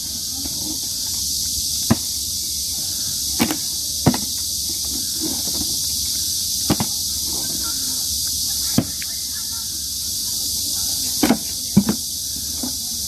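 A 2-litre plastic water bottle being flipped and knocking down onto the ground, eight or so sharp thuds at irregular gaps, three close together near the end, over a steady high-pitched hiss.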